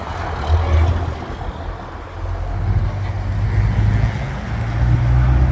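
Heavy truck's diesel engine running with a deep hum, growing louder from about two seconds in as the lorry draws near.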